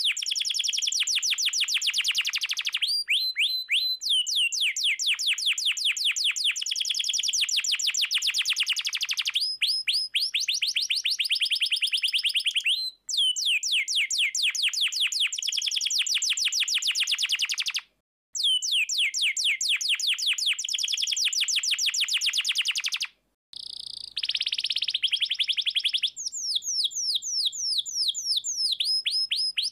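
Domestic canary singing in full song: long rolling trills of rapid, evenly repeated high notes that each sweep downward, broken by short pauses every few seconds.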